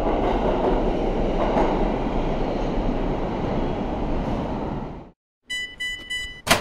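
Subway train running into a station, a steady rumble that fades out and stops about five seconds in. Three short electronic chime tones follow, then a sharp click near the end.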